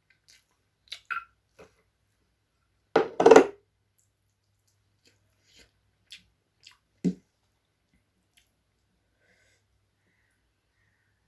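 Close-miked eating sounds from chewing chicken curry and rice: a few short wet clicks and smacks, with the loudest burst of sounds about three seconds in and a duller thump about seven seconds in.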